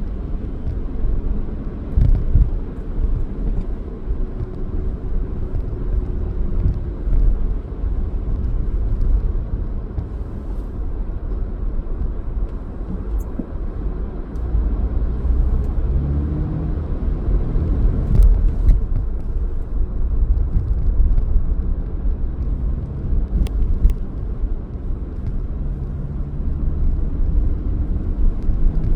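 A car driving along the road: a steady low rumble of engine and tyres with faint shifting pitches. There is a sharp knock about two seconds in and a couple more around the middle.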